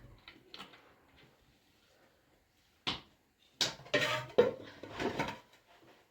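A single sharp knock about three seconds in, then a run of clattering knocks and scrapes of household objects being handled, like pots, dishes or a drawer.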